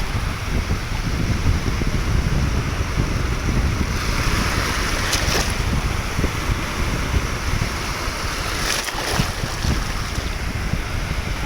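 Wind buffeting the microphone with a steady rush of water, like sea waves, and a couple of brief louder swishes about five and nine seconds in.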